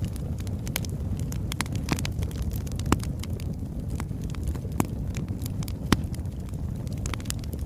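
Oak logs burning in a fireplace: a steady low rumble of flame with frequent sharp crackles and pops, three of them louder, about three, five and six seconds in.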